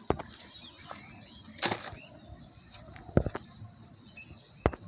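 A few short crinkles and knocks from old plastic being picked up and handled, about one every second and a half, over a steady high chorus of insects.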